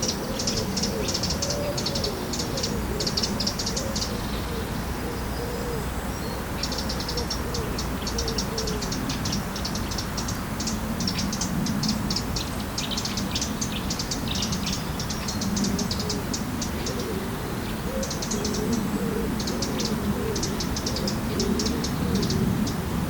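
Birds calling by the water: runs of rapid, high chittering that pause briefly a few seconds in, over lower wavering calls.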